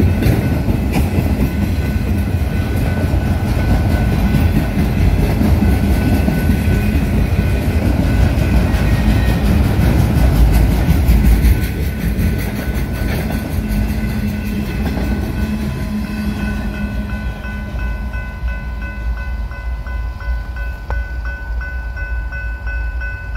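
Train cars rolling past on the rails: a low rumble with wheel clatter and a thin, steady ringing tone above it, growing quieter from about halfway through.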